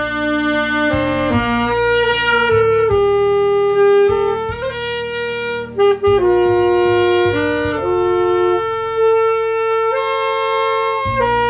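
Saxophone playing a slow melody in long held notes that move smoothly from one to the next, with a brief break about six seconds in.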